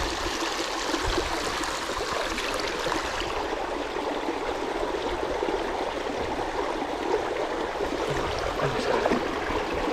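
Steady rush of water, an even hiss with no breaks.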